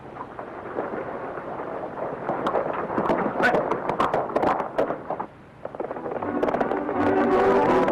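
Horses galloping, a fast clatter of hoofbeats over a rumble that builds for a few seconds. A film score comes in near the end.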